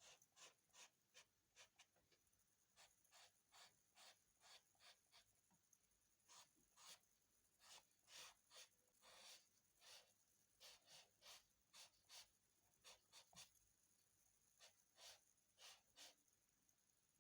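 Charcoal pencil scratching on paper in short, faint strokes, two or three a second, with a few brief pauses.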